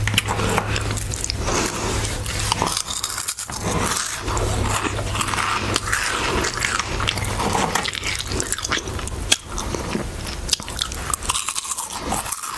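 Close-miked crunching and chewing of Harvest Snaps baked legume snack crisps, with many sharp, crackly crunches as the crisps are bitten and chewed.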